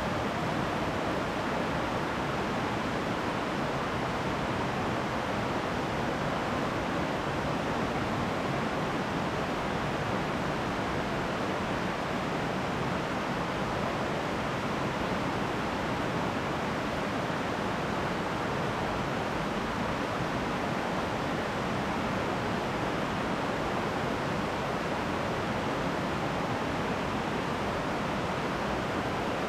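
Running water with a steady, even rushing that does not change.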